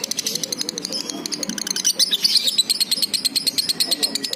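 Dun fallow lovebird singing, a fast unbroken chatter of rapid, high-pitched notes.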